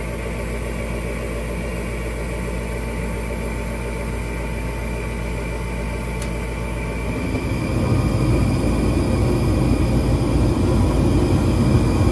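Gas furnace running after its igniter was replaced: a steady motor hum that gets louder and rougher about seven seconds in.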